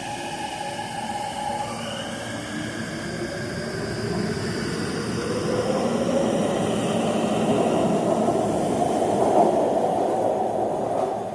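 Electric metro rail train pulling away: its traction motors whine in several rising tones as it speeds up, with running noise growing louder toward the end.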